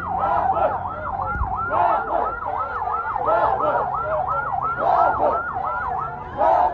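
Fast yelping siren, its pitch swooping down and back up about three to four times a second without a break.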